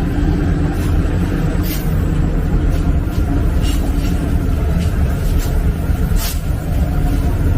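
Passenger train running along the track: a steady, loud rumble with a couple of brief knocks or clacks.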